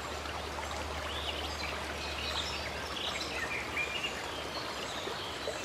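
Running stream water, a steady rush, with birds chirping in short, scattered calls over it.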